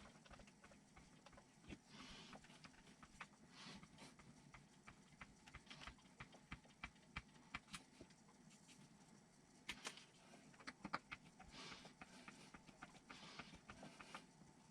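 Faint, irregular clicks and soft rustling of small kit parts and hand tools being handled and screws being fitted, with a cluster of sharper clicks about ten seconds in.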